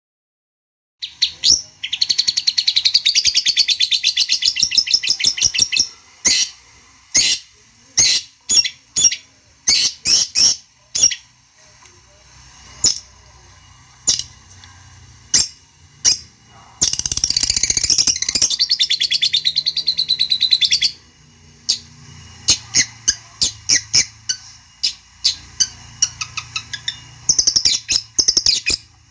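Long-tailed shrike (cendet) singing: three long runs of fast, high chattering notes, with strings of single sharp calls between them. It is a lure song (pancingan) meant to rile a rival shrike into answering.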